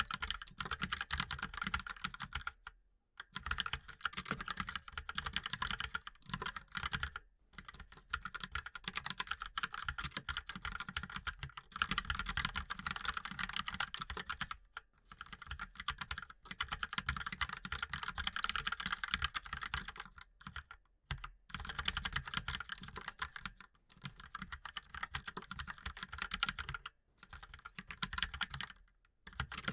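Fast, continuous typing on a mechanical keyboard: dense runs of key clicks, broken every few seconds by a brief pause.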